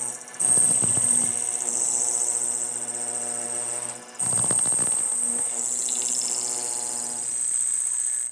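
A power tool runs with a steady high whine over a lower hum. It cuts out for a moment about four seconds in, then starts again.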